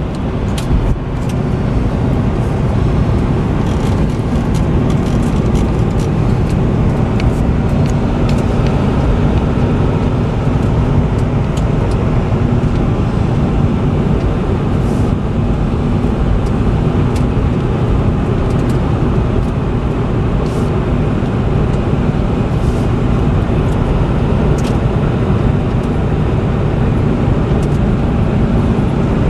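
Corvette Z06's supercharged 6.2-litre LT4 V8 pulling the car at a steady speed, with a constant engine drone over tyre and road rumble and a few faint clicks.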